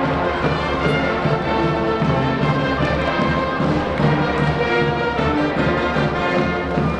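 Brass band music playing continuously at a steady level, several instruments sounding together.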